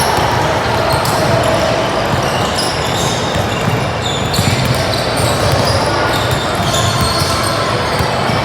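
Basketball game sounds in a gym: the ball bouncing on the hardwood court amid the general din of play, with voices in the background.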